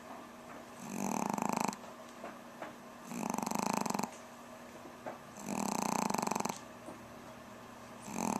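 A Pomeranian dog snoring in its sleep. There are four regular snores, each about a second long and coming every two seconds or so; the last starts near the end.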